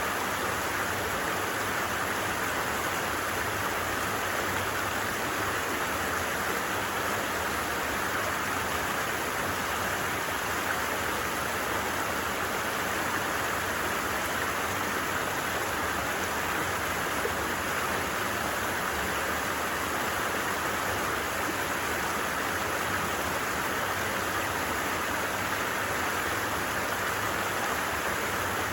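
A flowing stream (dere) babbling and rushing steadily, an even water noise with no breaks.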